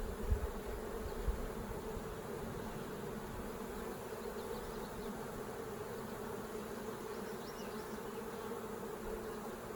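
Honeybees buzzing steadily around an open hive, a dense hum of many bees. A few low handling bumps in the first second or so.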